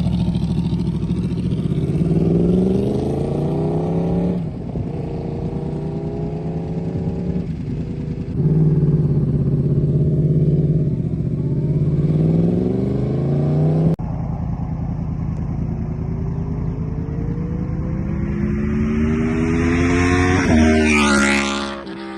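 Sport motorcycle with a loud aftermarket exhaust accelerating hard, its engine note climbing in several pulls with abrupt breaks between them. Near the end the pitch jumps sharply and then drops as the bike passes close by.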